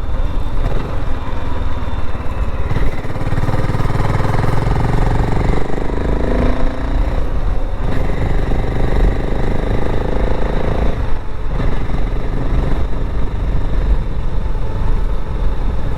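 BSA Gold Star 650 motorcycle's single-cylinder engine running under way. Its note rises as it accelerates a few seconds in, and the sound briefly dips about two-thirds of the way through.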